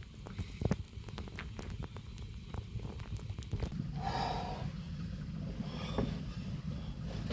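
Wood fire crackling, with sharp pops clustered in the first few seconds, over a steady low rumble.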